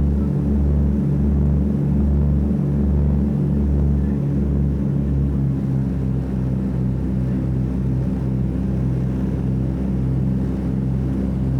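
Piston-engined propeller airliner engines droning steadily, with a slow pulsing beat between the engines for the first five seconds or so that then evens out.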